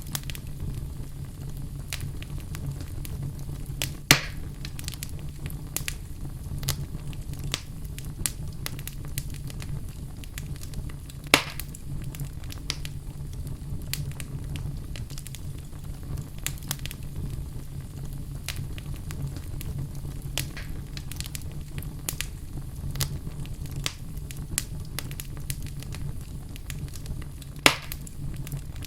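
Wood fire burning in a fireplace: a steady low rumble of the flames with constant small crackles and three louder sharp pops, the last near the end.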